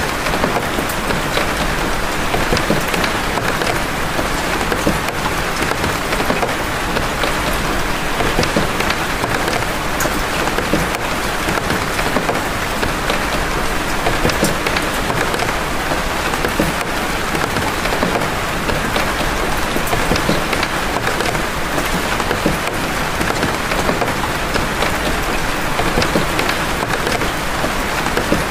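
Steady heavy rain, its even hiss broken by many sharp hits of single big raindrops.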